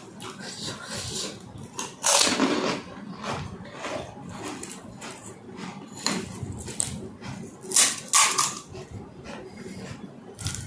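A person eating pani puri: crisp hollow puri shells crunching with wet slurping and chewing, in irregular bursts, the loudest about two, six and eight seconds in.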